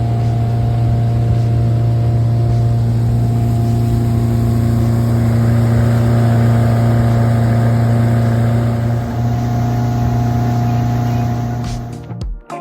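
Motorboat engine running steadily at an even hum, with water and wind noise. It cuts off near the end, where music starts.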